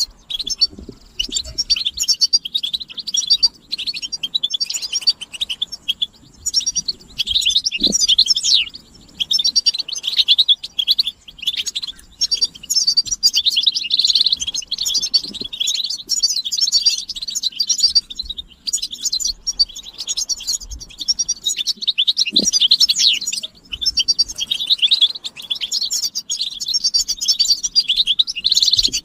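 Several European goldfinches chattering and twittering together: a dense, fast run of high chirps and trills with only brief pauses, the excited mating calls of goldfinches.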